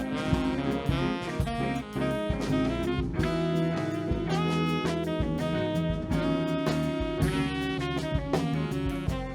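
Instrumental passage of a live band with saxophone, piano, bass guitar and drum kit: held and moving saxophone-like notes over a steady drum beat, with no singing.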